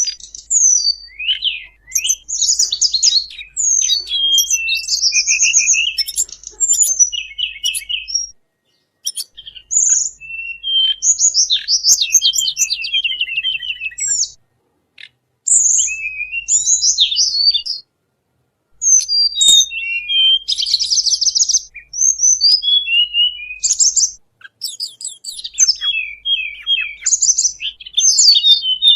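Recorded song of a tledekan bambu played as a bird lure: rapid, high-pitched chirps and twittering trills. It comes in bursts of several seconds with short pauses of about a second between them, and a faint low hum runs under the bursts.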